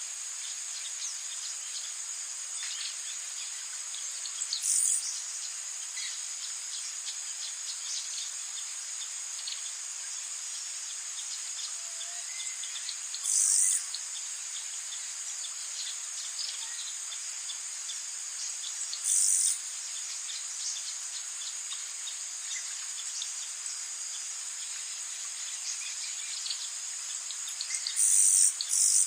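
Rainforest ambience: a steady high-pitched chorus of insects such as crickets, with scattered faint chirps. Short, louder high-pitched bursts stand out about five times, the last two close together near the end.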